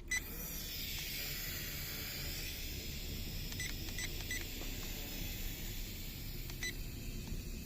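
Small JC801 toy quadcopter's propellers starting suddenly and running with a steady high whir, with three short electronic beeps a little past halfway and another near the end. Wind rumbles on the microphone underneath.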